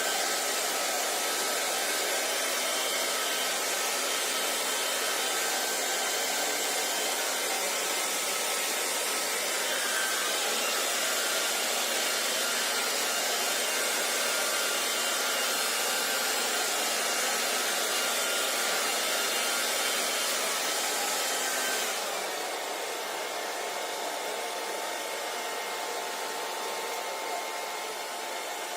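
Hand-held hair dryer blowing steadily: a dense rush of air with a faint motor whine. About three quarters of the way through it becomes quieter and duller.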